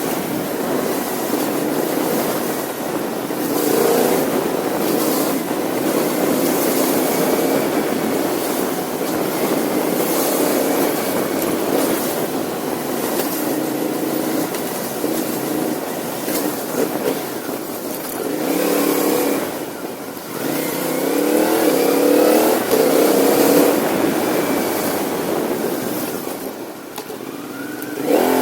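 CFMoto 450NK motorcycle's parallel-twin engine running on the move under a heavy rush of wind, the revs rising and falling as it accelerates and eases off, most plainly in the second half.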